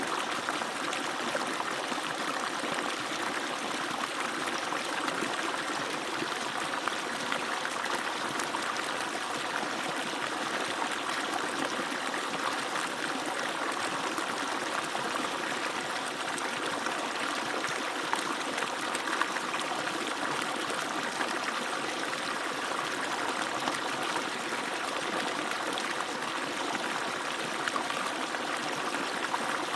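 Water pouring steadily from an agricultural pump's outlet pipe: an even, continuous rush of falling water with small splashes.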